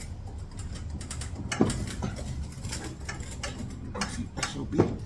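Small metal parts of a pressure washer pump's unloader clicking and rattling as they are worked and pulled at by hand, with a louder knock about one and a half seconds in and another near the end.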